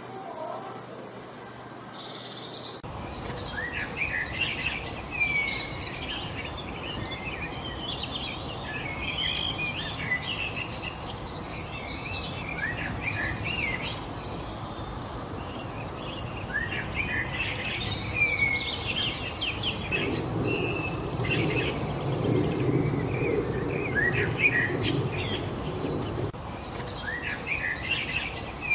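Several birds singing and chirping together, with many short, quick calls overlapping over a steady hiss of outdoor background noise. A low rumble joins in for a few seconds past the middle.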